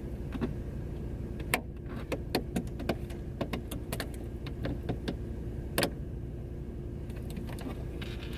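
Clicks and knocks of a plastic camera tripod mount being handled and fitted against a car window, the loudest about one and a half seconds in and near six seconds, over the steady low hum of the car's engine idling.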